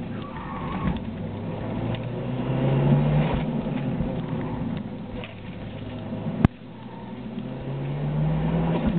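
Toyota Celica GT-Four's turbocharged four-cylinder engine heard from inside the car, revving up under hard acceleration twice, dropping back in between as the driver lifts or shifts. A single sharp click about six and a half seconds in.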